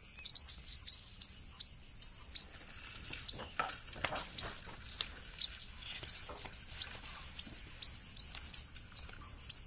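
Natural ambience: a small bird chirping, short high chirps about twice a second, over a steady high-pitched insect trill.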